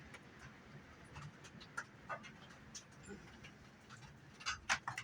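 Faint, scattered light clicks and taps, with a few louder ones near the end.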